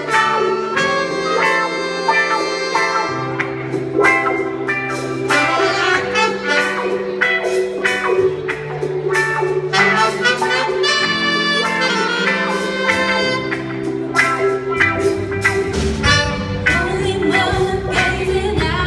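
A voice singing over a backing track with a bass line and drum beat: a cover of an R&B song.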